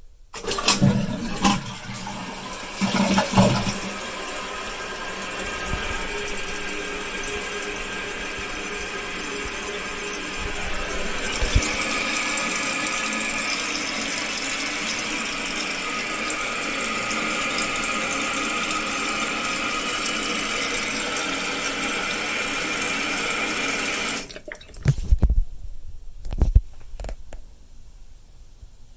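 Jacuzzi Primo toilet flushing: a few clunks from the flush mechanism, then water rushing and the fill valve hissing as the tank refills for about twenty seconds. The fill valve shuts off suddenly, followed by a few knocks.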